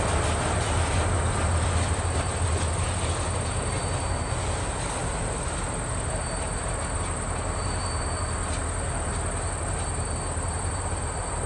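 NYSW train moving off from the crossing: a steady low rumble of the train that slowly fades.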